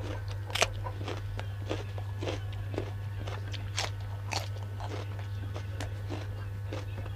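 A person chewing and crunching food close to the microphone, with crisp crunches about twice a second, over a steady low hum.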